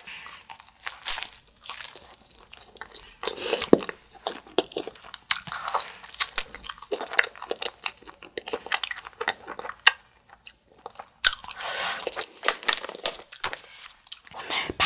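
Close-miked biting and chewing of a fish-shaped wafer ice cream sandwich (a spicy Bungeo Ssamanco), the crisp wafer shell crunching in many sharp crackles. There is a louder bite about a third of the way in and denser crunching in the second half.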